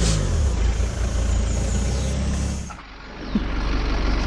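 Car engine and road noise from a moving vehicle, the engine pitch dropping right at the start. Just before three seconds in the sound dips abruptly and resumes with a duller rumble.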